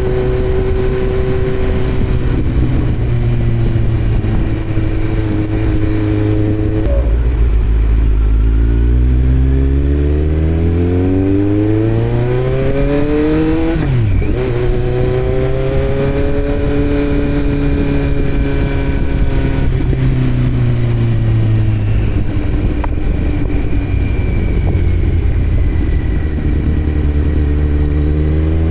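2018 Kawasaki Z900's inline-four engine through a Yoshimura muffler and Delkevic headers with no dB killer, heard while riding. It holds steady revs, then about seven seconds in the revs climb for several seconds under acceleration. The pitch drops suddenly on a gear change, falls gradually as the bike eases off, and rises again near the end.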